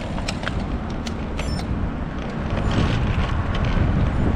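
Steady low rumble of road and traffic noise with scattered sharp clicks, growing louder about two and a half seconds in.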